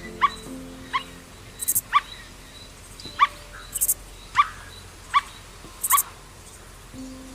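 Short, sharp animal calls repeated about once a second, over background music with steady low tones and a high shaker-like hiss about every two seconds.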